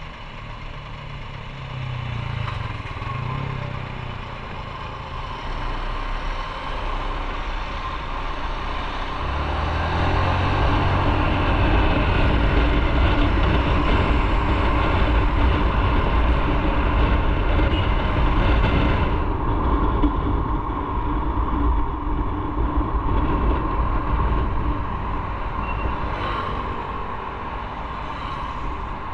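Motorcycle riding along: its engine rises and falls in pitch in the first few seconds, then a louder low rumble of engine, road and wind noise builds from about ten seconds in and eases after about nineteen seconds.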